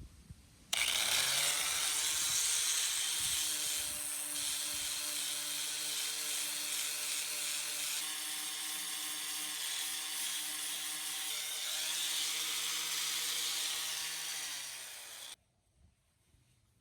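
Electric power sander grinding down cured fiberglass: it starts suddenly about a second in and runs steadily with a motor hum over a gritty hiss, then winds down slightly and stops about a second and a half before the end.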